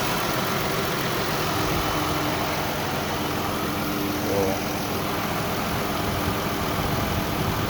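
Dodge Grand Caravan's 3.6-litre V6 idling steadily after a head gasket replacement.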